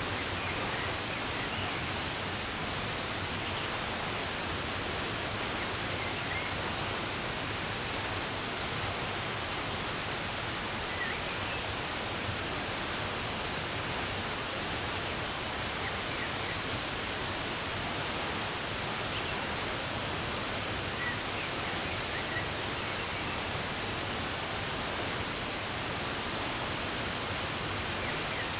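Running water rushing steadily, like a stream or small waterfall, with a few faint, short bird chirps scattered over it.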